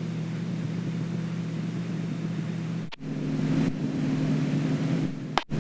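Engine and propeller drone of an Extra 300L aerobatic aircraft heard through the cockpit intercom: a steady low hum. It cuts out briefly about three seconds in, and again near the end with a click.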